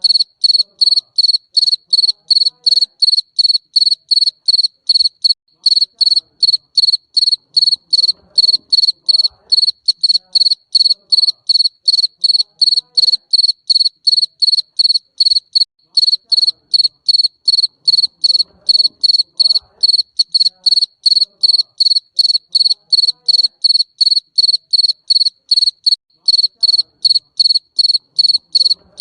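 Garden cricket (jangkrik kebun) calling: a high, even, shrill chirp repeated about three times a second without a break.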